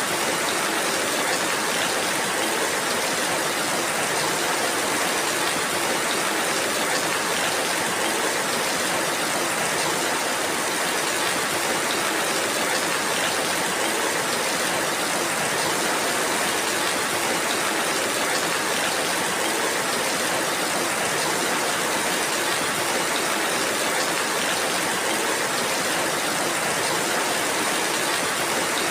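Steady rainfall, an even hiss that holds at one level throughout with no single drops or other events standing out.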